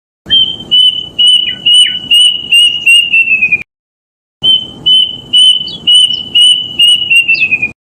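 Kedasih cuckoo song played as a lure call: two phrases of about eight loud, clear whistled notes on one pitch, each phrase ending in a quick run of notes that falls in pitch.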